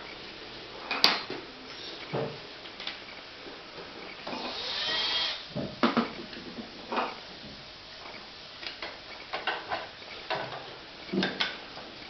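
A series of irregular knocks and clicks, with a short hiss near the middle.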